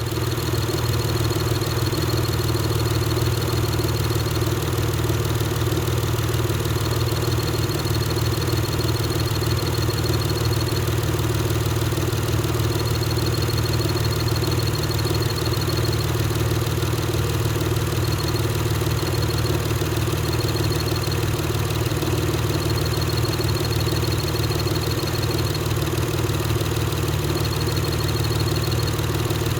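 Acura TL Type-S V6 engine idling, with a rapid high-pitched chirping from the clutch that comes and goes in stretches of a few seconds.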